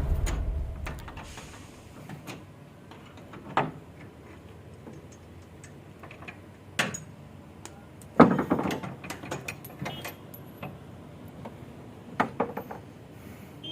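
Scattered metal knocks and clicks as the lorry's side boards are unfastened and taken off. The loudest knock, about eight seconds in, is followed by a short rattle.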